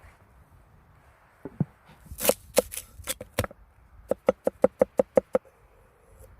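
Knife chopping on a cutting board: a couple of light knocks, four harder strikes, then a quick run of about eight chops at roughly six a second.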